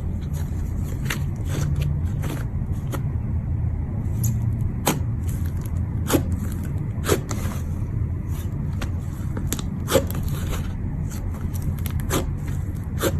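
Slime being squeezed and handled, with scattered sharp pops and clicks over a steady low hum.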